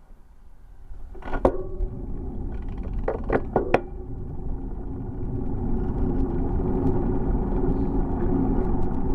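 Low rumble of wind and rolling noise from a bicycle ride, building up over the first few seconds as the bike gets going, then holding steady. A few sharp knocks or rattles come between about one and four seconds in.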